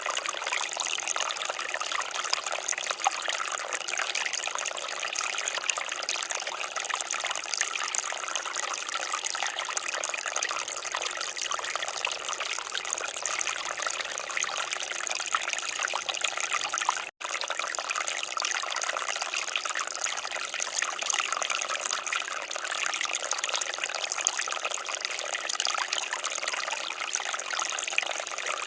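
Water fountain splashing and trickling steadily, an even hiss of falling water, with a momentary cut-out about two-thirds of the way through.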